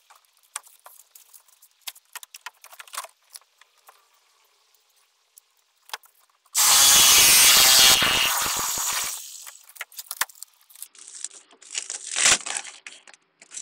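A power tool runs in one short burst about halfway through, then winds down over a second or two. Before and after it come scattered scrapes and knocks of a boat's plywood-and-fiberglass stringer being worked out of the hull, with one sharp knock near the end.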